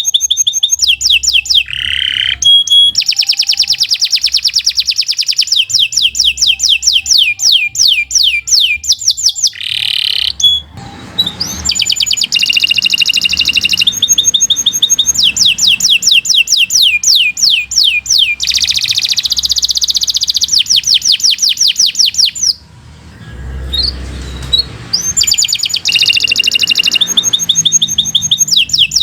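Domestic canary singing a long song of fast, rolling trills, with a short break about three-quarters of the way through.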